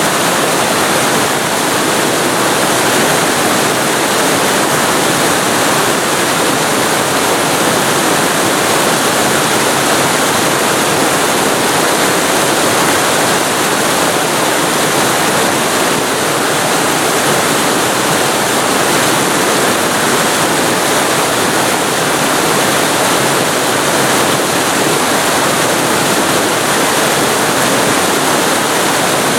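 Waterfall recorded at very close range: a steady, dense rush of falling water with no breaks or distinct splashes.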